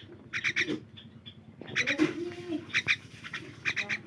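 Myna calling: short, sharp notes in quick clusters of two to four, repeated about every second.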